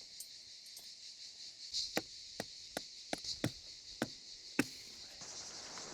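A tent stake being hammered into the ground: about seven sharp knocks at an uneven pace, starting about two seconds in, the last one the loudest.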